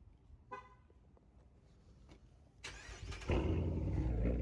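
Straight-piped Dodge Durango engine being cranked by the starter for about half a second, then firing up loud and running on at a steady idle.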